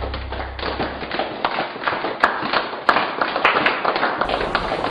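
Scattered, irregular hand clapping, many short claps and taps close together, while a low hum dies away in the first second.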